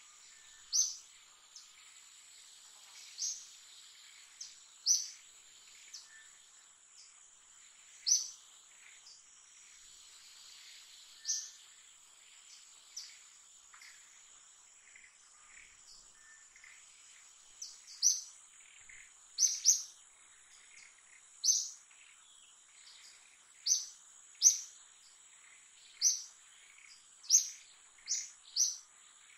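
A bird giving short, high chirps again and again, one every second or two at first and more often in the second half, over a steady high-pitched insect drone.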